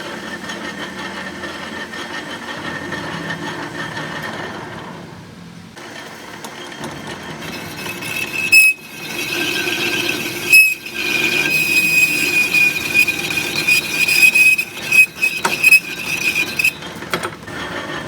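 A high-pitched metallic squeal held for about nine seconds, broken by several sharp metallic knocks, after a stretch of duller mechanical noise.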